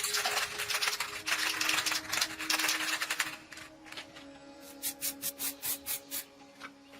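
Hand rubbing or scraping on a metal part, a long rasping stretch followed by a run of short strokes about three a second, over quiet background music.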